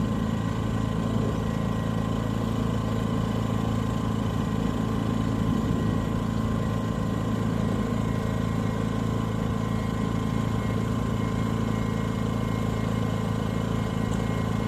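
Duka 2.5 kW portable generator's small engine running at a steady, even hum with no load on it.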